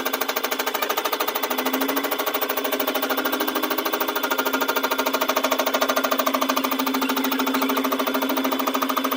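A power tool running steadily with a fast, even rattle.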